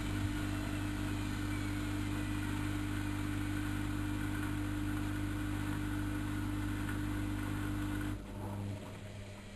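Bauknecht WAK7760 washing machine running steadily with a constant low hum. It cuts off abruptly about eight seconds in, leaving only a faint hum.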